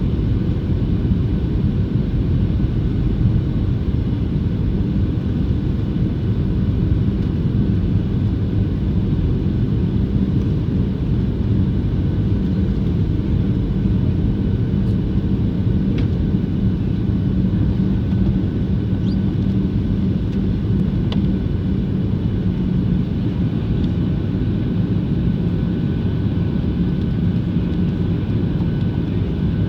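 Cabin noise inside a Boeing 737-700 airliner: a steady rumble from the CFM56 jet engines and airflow, with a constant hum on top.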